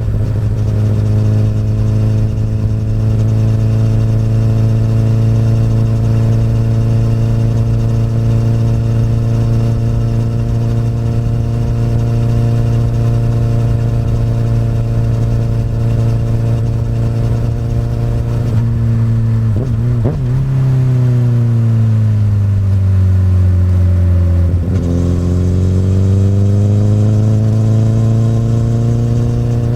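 Honda CBR1000RR inline-four through an Akrapovic exhaust, riding at steady revs. About twenty seconds in there is a brief break, the revs fall for a few seconds, then after another brief break they climb again.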